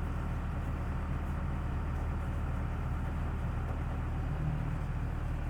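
Sampo Rosenlew SR2065 combine harvester running with a steady, even drone.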